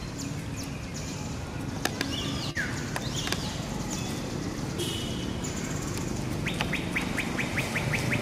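Wild birds chirping and calling, with a few short high notes and sliding calls, then a rapid even trill of about seven notes a second near the end, over a steady low outdoor background rumble.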